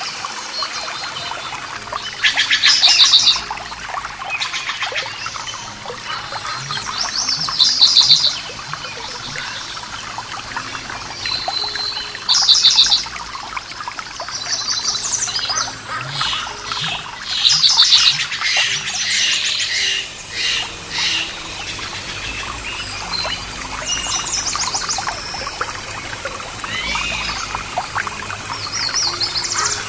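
Songbirds singing in short trilled phrases, several loud bursts a few seconds apart, over a steady background of running water.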